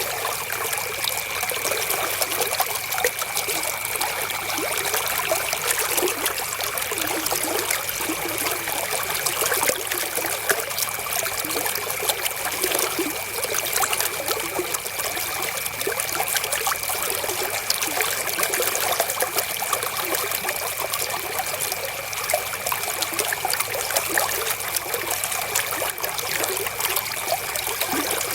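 River water flowing and trickling steadily, a continuous splashing rush with no change, with a thin steady high tone running underneath.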